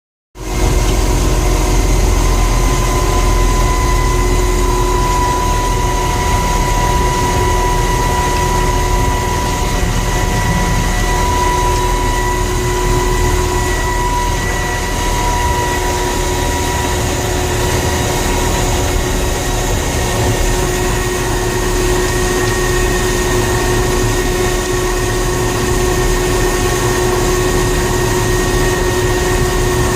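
Heavy engine of a railway snowplow rig running steadily while it clears snow from the tracks, a low rumble with a steady whine over it.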